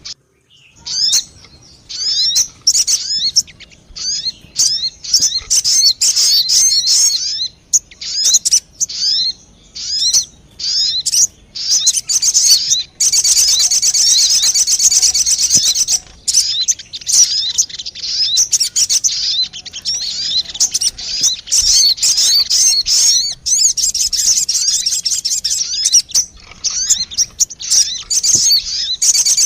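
Sogon bird lure call: rapid, high, twittering chirps. They come in short bursts separated by brief pauses at first, then run almost without a break from about halfway through.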